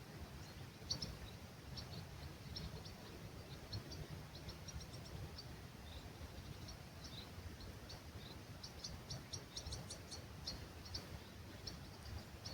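Small birds chirping at dawn in an olive grove, many short high chirps that come thicker in runs around the middle and again near the end, over a low rumble of breeze.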